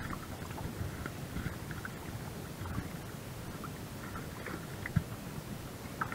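Low, steady rumble of a boat at sea, with one sharp knock about five seconds in.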